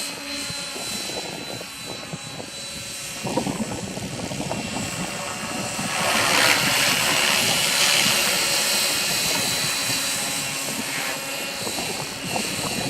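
Align T-Rex 550 radio-controlled helicopter in flight: a steady rotor and motor whine with a thin high tone. The sound swells for a couple of seconds around the middle. Wind buffets the microphone.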